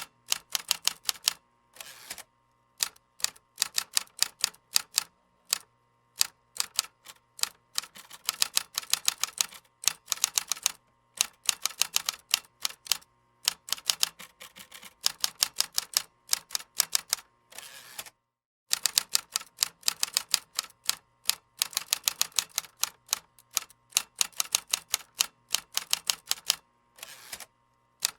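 Computer keyboard being typed on: quick runs of keystroke clicks broken by short pauses. A brief, completely silent gap falls about two-thirds of the way through.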